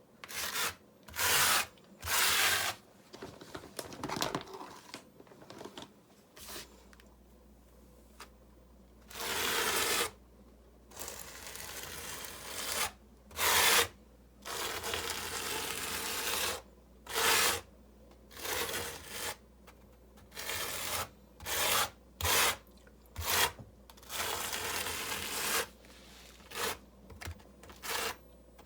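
Repeated irregular scraping and rubbing strokes of hand work on rough masonry, the mortar and river-rock base, in short bursts with pauses between.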